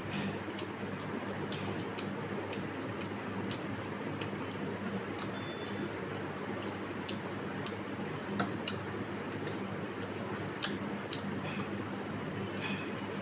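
Close-up chewing of a mouthful of rice and curry: irregular wet mouth clicks and lip smacks, about one or two a second, over a steady low hum.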